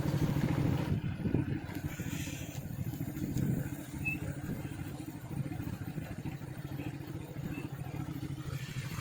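A vehicle in motion: a steady low rumble of engine, road and wind noise.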